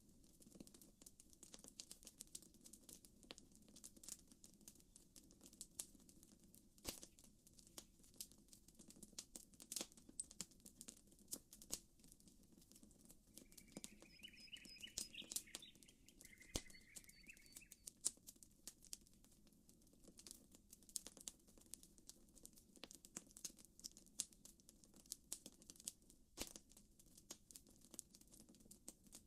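Campfire crackling faintly, with irregular sharp snaps and pops over a low steady murmur. A bird chirps in two short bursts a little over halfway through.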